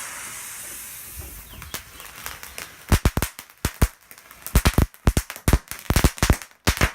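Homemade pen firecracker burning with a steady hiss, then from about three seconds in a fast, irregular string of sharp cracks as its firework composition goes off.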